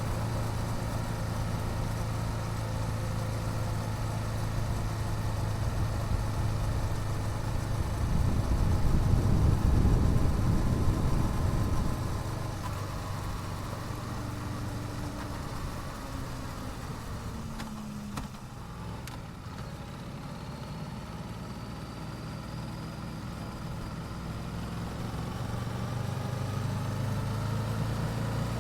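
Yamaha YZF-R7's parallel-twin engine with its stock exhaust, heard while riding: a steady low engine note that grows louder for a few seconds about a third of the way in. Near the middle it eases off with a falling pitch, then runs quieter and builds again toward the end.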